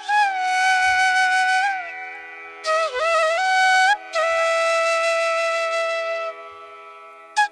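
Background music: a flute playing long held notes with slides and bends between them, over a steady drone.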